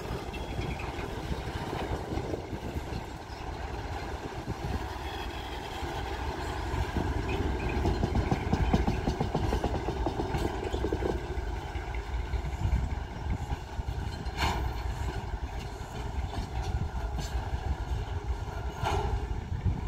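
Diesel-hauled train of tank wagons rolling away along the track: a steady low rumble of wheels on rails and the locomotive's diesel engine. Two short sharp knocks come about three-quarters of the way through and again near the end.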